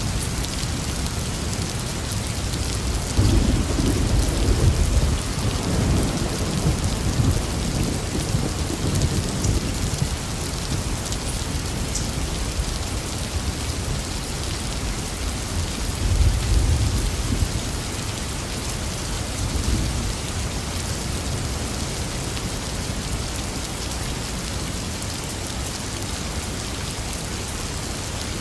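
Steady rain falling, with thunder rumbling deep and low, loudest a few seconds in and again a little past halfway.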